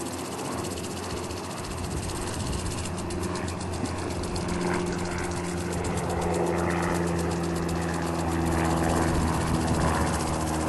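Aircraft engine drone growing steadily louder as it approaches, with a rapid regular beat entering the sound about three seconds in.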